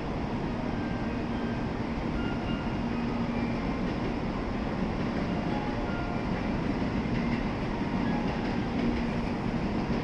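N700A Shinkansen train at the platform, with a steady rumbling train noise and a faint hum; there are no distinct clanks or horn.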